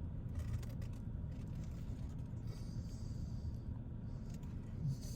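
Steady low hum of a running vehicle heard from inside, with a faint rustle about halfway through.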